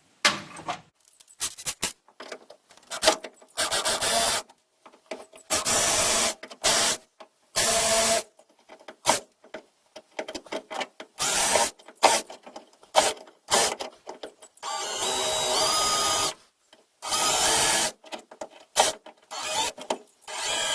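Power drill with a spot weld drill bit cutting out spot welds in the sheet-steel seat pan, run in many short stop-start bursts, the longer ones about a second and a half.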